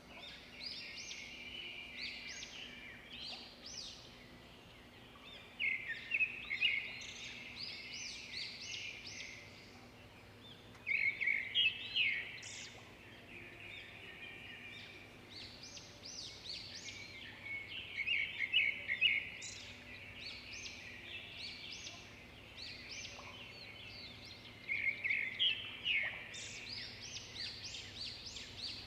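Small birds chirping and twittering in bursts of quick high notes that come every few seconds, over a faint steady hum.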